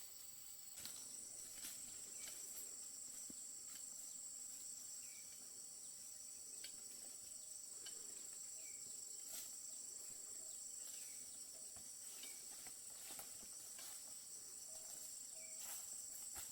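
Faint, steady high-pitched trilling of an insect chorus, with scattered faint clicks and a few short chirps over it.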